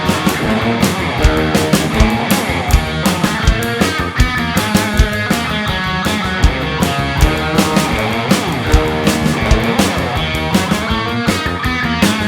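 Live rock band playing: electric guitars over bass and a steady drum beat.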